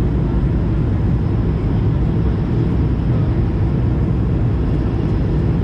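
Steady cabin noise inside an Airbus A220-300 airliner in descent: a low rumble of airflow and its Pratt & Whitney geared turbofan engines, with no change in level.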